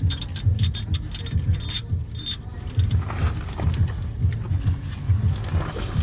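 Steel muffler clamp hardware (U-bolts, saddles and nuts) clinking and jangling as it is fitted around the exhaust pipe coupler. The clinks come quickly in the first two and a half seconds and thin out after that, over a low rhythmic thumping.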